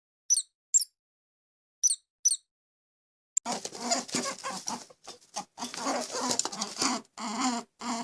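Animal calls: two pairs of short, high-pitched squeaks, then, about three and a half seconds in, a louder and rougher animal call that runs on in broken bursts.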